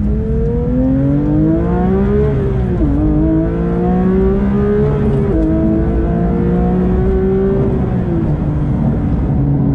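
Porsche 911 GT3's naturally aspirated flat-six accelerating hard through the manual gears: the engine note climbs, drops sharply at an upshift about three seconds in, climbs again, drops at a second upshift about five seconds in, then holds and settles to a lower steady note as the throttle eases near the end.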